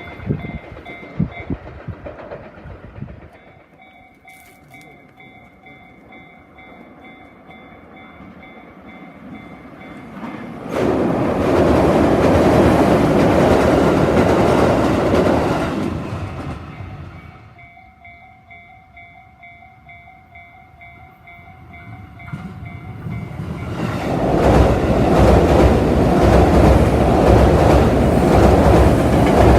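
A Japanese level-crossing bell rings its steady repeated ding-ding. Two trains pass on the JR West Kansai Main Line, each a loud rumble and clatter of wheels over the steel railway bridge that drowns the bell. The first comes about eleven seconds in and fades after about five seconds; the second builds from about twenty-three seconds in and runs to the end.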